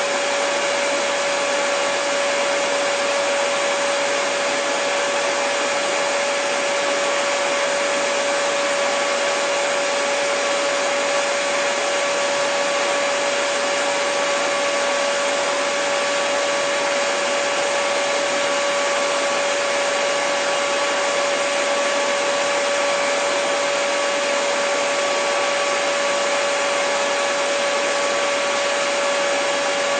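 Hair dryer running steadily: a constant rush of airflow with a steady motor whine.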